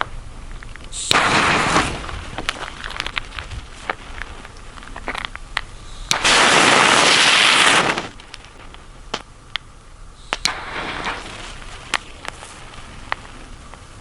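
Small Category 1 youth fireworks (Nico 'Speedy') going off. There are three hissing bursts, the longest and loudest in the middle, with scattered sharp crackles and small pops between them.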